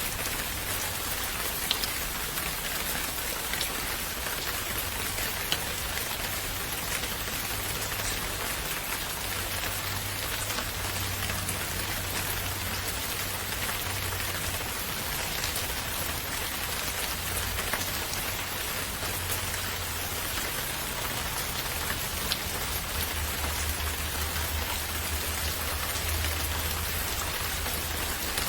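Steady rain falling and pattering on a surface, with a few louder individual drops standing out now and then.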